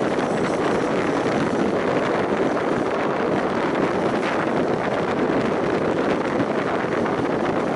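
Steady rush of wind over the microphone at an open window of a moving passenger train, mixed with the even running noise of the coaches on the rails.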